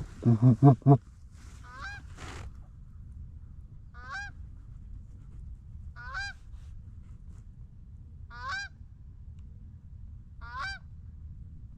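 Geese honking: a burst of four quick, loud low honks right at the start, then single honks about every two seconds.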